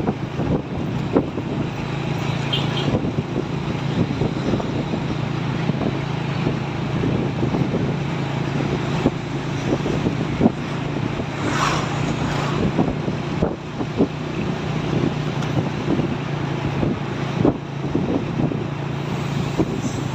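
Road vehicle running at speed: a steady low engine drone under road noise and wind buffeting the microphone, with scattered knocks and a brief hiss a little past halfway.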